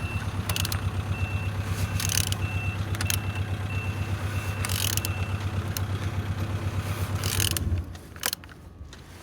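Engine being turned over, a steady low rhythmic pulsing at about six to seven beats a second as the cylinders come up on compression; it stops near the end. The even pulses show the engine turns freely with compression on all cylinders.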